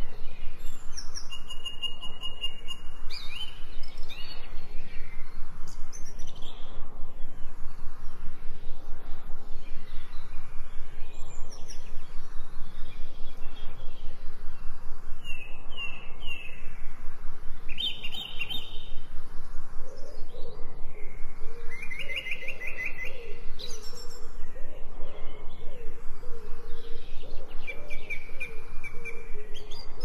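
Several songbirds singing and calling: scattered chirps, short whistled notes and quick trills. A lower, repeated warbling call joins in for the last third.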